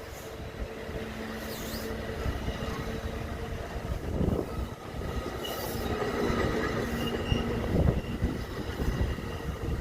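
Commuter passenger train rolling past, its wheels rumbling steadily on the rails, with brief high-pitched wheel squeals and two heavier knocks, about halfway through and near the end.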